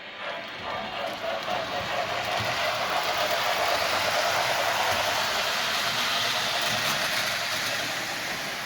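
MTH Rail King O-gauge 4-8-4 Bantam J model steam locomotive running on the track: wheels, gearing and its Proto-Sound 2.0 steam effects make a dense rattle that grows louder over the first few seconds and then holds steady.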